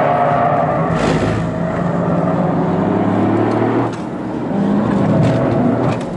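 Toyota GR Yaris's turbocharged 1.6-litre three-cylinder engine heard from inside the cabin, pulling hard with revs climbing, easing off just before four seconds in, then pulling again.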